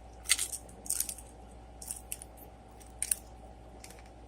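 Crunching bites and chewing of crispy fried dumplings close to the microphone: a handful of short, sharp, crackly crunches spread over a few seconds.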